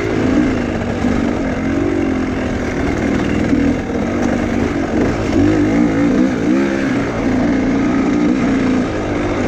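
Enduro motorcycle engine revving under changing throttle, its pitch rising and falling again and again.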